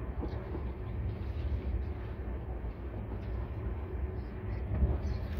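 Steady low rumble of a moving passenger train heard from inside the coach, with a louder jolt near the end.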